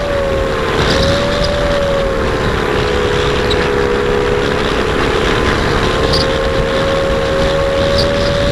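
Electric motor and propeller of an Apprentice S 15e RC plane whining steadily, the pitch sagging a little in the middle and climbing again near the end, over heavy wind rumble on the microphone.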